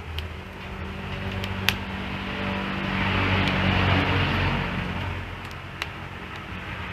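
Low, steady mechanical hum with a rushing noise that swells and fades around the middle, over a campfire giving a few sharp pops, the loudest about two seconds in.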